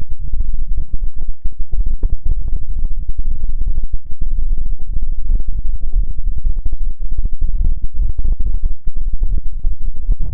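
Hands cupping and rubbing over a binaural microphone's ears: a loud, muffled low rumble with dense fine crackling.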